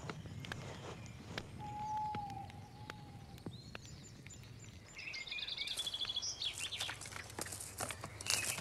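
Birds calling and singing: a single long whistled note about two seconds in, then short high chirps and, about five seconds in, a rapid trill followed by livelier chirping. Scattered light clicks sound over a low steady background.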